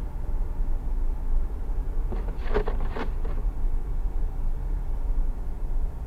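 Steady low road and engine rumble of a car driving on a highway, heard from inside the cabin. About two seconds in, a short cluster of knocks with a brief squeak, lasting about a second and a half.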